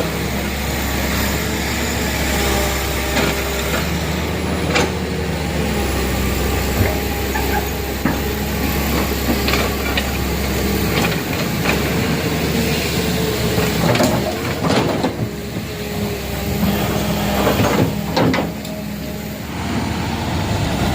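Truck engine running steadily, with a few sharp knocks or clangs over it.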